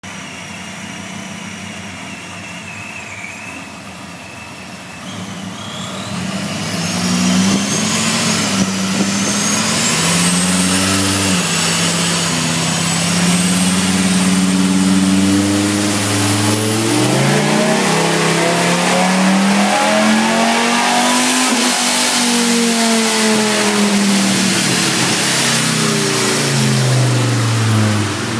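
Supercharged Dodge Ram SRT-10's V10 engine, boosted by a Paxton Novi 2000 centrifugal supercharger. It runs quietly at first, then gets loud about six seconds in, its pitch climbing, dipping, climbing again and falling away near the end. A high supercharger whine rises along with it.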